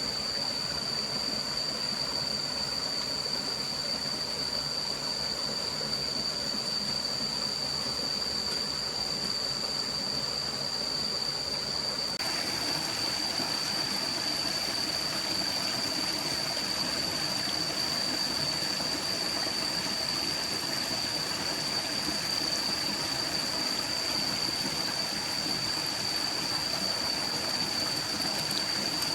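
Stream water flowing steadily, an even rushing noise, with a constant high-pitched tone above it. About twelve seconds in, the rush turns brighter and hissier.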